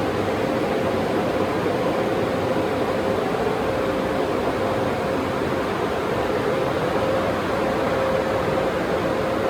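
Car wash equipment running steadily: a continuous rushing noise with a held hum.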